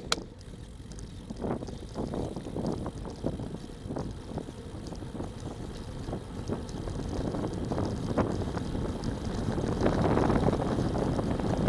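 Wind buffeting the microphone, a rough low rumble that grows steadily louder as speed builds on a downhill run.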